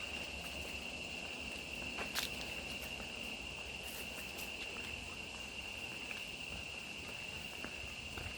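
Insects calling in one steady, unbroken high-pitched drone, with a few sharp clicks, the loudest about two seconds in.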